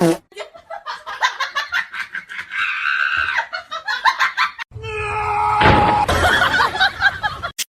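People laughing and shrieking. About five seconds in it turns suddenly louder and noisier, with more laughter and yelling.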